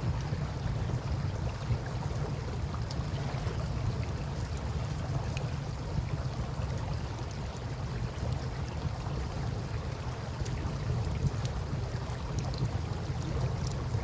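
Campfire crackling with scattered small pops over a steady wash of river water.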